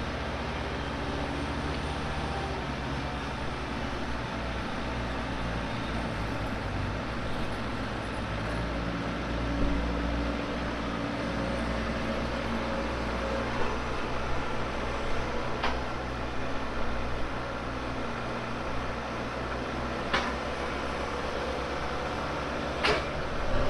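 Excavator engine running steadily as the machine works the soil, its pitch shifting a little, with a few sharp knocks in the second half and one more near the end.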